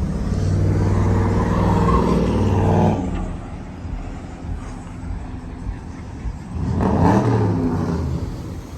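Car engine running loudly for about three seconds, then cutting off abruptly. About seven seconds in, a second engine sound swells up and fades again, its pitch rising and falling.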